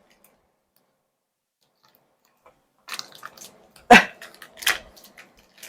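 Silence for about three seconds, then light clicks and rustling as butter is handled and put into a dish, with one sharp knock about four seconds in.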